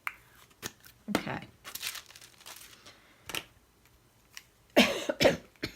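Paper crinkling and rustling in short strokes as paper pieces are handled, then two loud coughs near the end.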